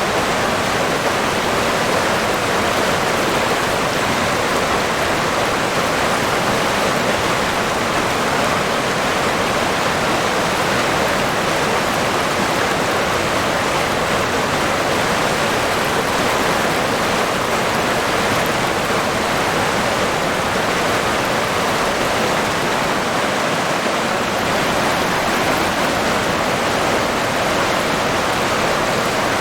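River water running steadily, a constant rushing with no breaks or changes.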